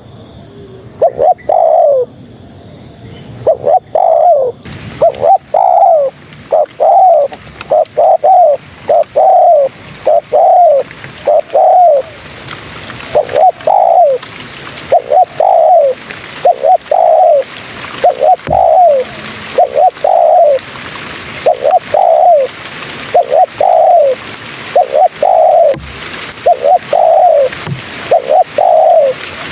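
Spotted dove cooing: short, falling coo notes repeated about once a second, with a brief pause about twelve seconds in. The call is presented as a female spotted dove calling to draw males.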